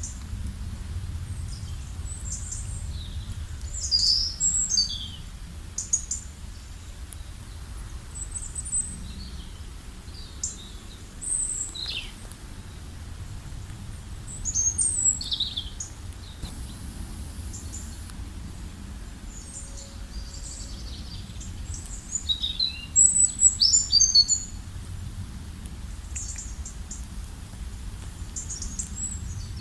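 Several wild birds chirping and calling in short, scattered phrases, with a loud flurry of calls a little over twenty seconds in, over a steady low background rumble.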